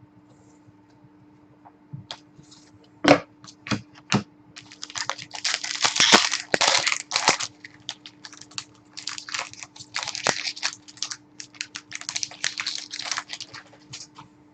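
Trading card packs being opened and handled: a few sharp clicks, then a long stretch of crinkling and rustling of pack wrappers and cards with many small clicks.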